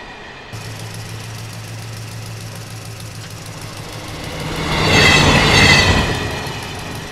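Animation sound effects of a steady low engine hum that starts about half a second in. A passing train's rumble with high squealing tones swells near the five-second mark and then fades.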